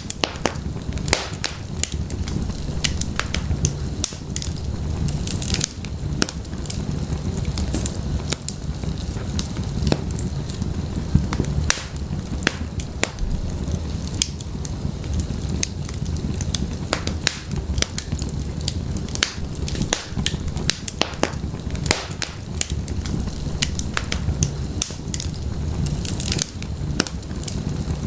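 Burning firewood crackling and popping with many irregular sharp snaps, over a steady low rumble of the flames.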